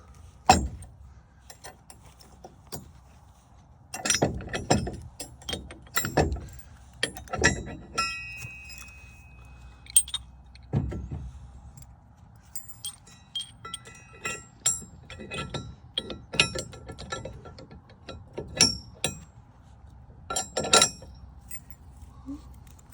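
Irregular metal-on-metal clanks and clinks, some leaving a short ring, from hand work on the truck's seized hitch and shackle hardware.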